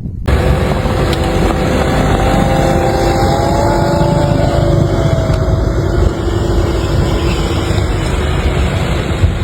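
An engine running steadily under a loud, dense rushing noise, starting abruptly, with a few faint tones that waver slightly in pitch during the first half.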